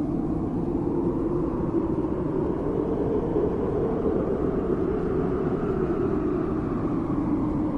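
Steady low rumbling noise with no clear pitch or rhythm, swelling slightly in brightness in the middle.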